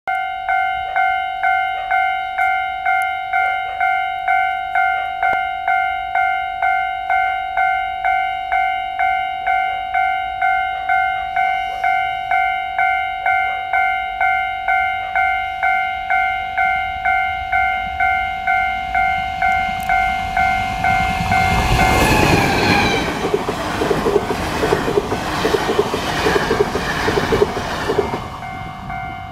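Level-crossing warning bell ringing steadily, about two strokes a second, while a Taiwan Railways train approaches. About 22 seconds in, the train passes close by for some six seconds: a loud rush of wheels on rail with regular clacks over the rail joints and a brief falling tone. The bell keeps ringing after the train is gone.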